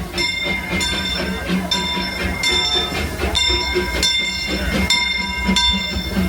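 Steam locomotive bell ringing over and over, a struck, ringing note roughly every three-quarters of a second, over the low steady hum of the standing train.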